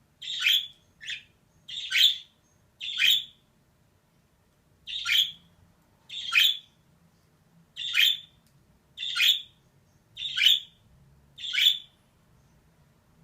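Female budgerigar calling: about ten short, sharp squawking chirps, roughly one a second, with a gap of about two seconds after the fourth.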